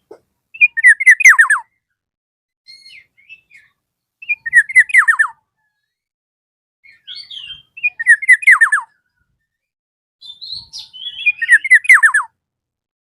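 Black-naped oriole (kepodang emas) singing: four loud phrases about three and a half seconds apart, each a quick run of falling whistled notes, with softer short notes between them.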